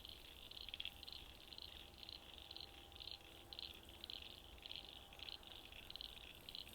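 Frogs calling faintly from a small pool of water: a steady run of short, high, rattling calls, about three a second.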